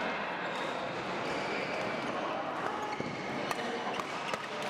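Badminton rally in a sports hall: sharp racket strikes on the shuttlecock and sneakers squeaking on the court floor, over a steady hall din of voices.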